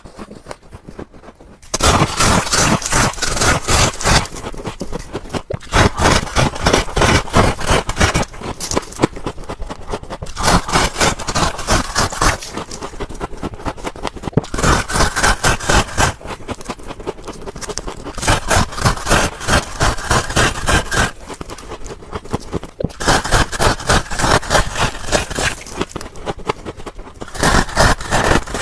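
Close-up crunching and scraping of refrigerator frost ice, in loud crackly bursts about every four seconds with quieter crackling between.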